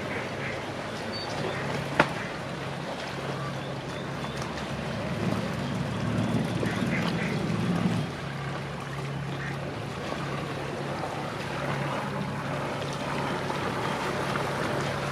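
A boat engine running with a steady low hum, which swells for a few seconds around the middle and drops back suddenly, while ducks quack. One sharp click about two seconds in.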